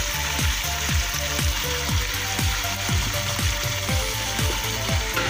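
Chicken and tomatoes sizzling in a pot, under background music with a fast, steady beat.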